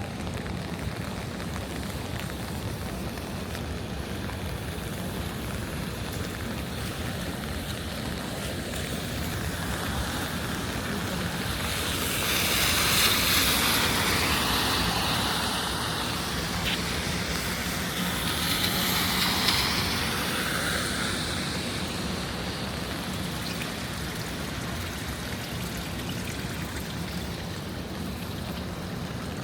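Steady rain with the hiss of tyres on wet pavement as vehicles pass, swelling loudest about twelve seconds in and again briefly near twenty seconds, over a low hum of city traffic.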